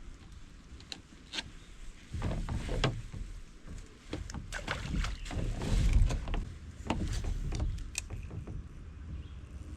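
Scattered clicks and knocks of fishing gear being handled aboard a kayak, over a low rumble.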